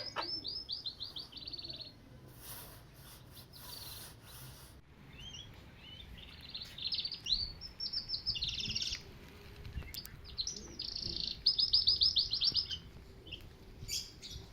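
Small songbirds singing: fast runs of short, high chirps, repeated in bursts and loudest twice, around the middle and again a few seconds before the end.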